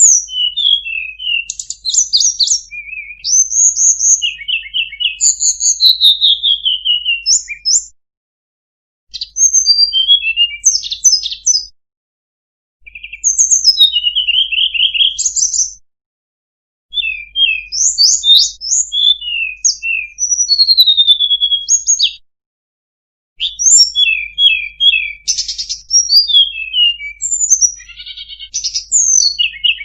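Tledekan gunung song: quick high chirps, trills and short whistled slides, sung in bursts of several seconds with brief silences in between.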